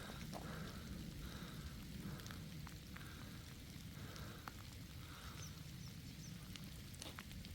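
Faint steady rain, with scattered drops ticking over a low rumble.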